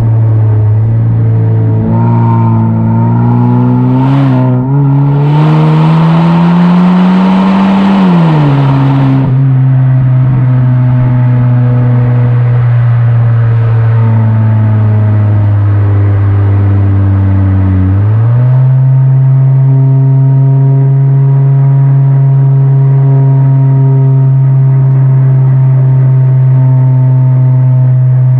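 Kia K5 (DL3) 1.6 turbo four-cylinder with a tuned aftermarket exhaust, driving: a steady exhaust drone that climbs in pitch for several seconds under acceleration, with a loud rushing noise near the top, then drops back and holds steady. About two-thirds of the way through the pitch steps up again and stays level.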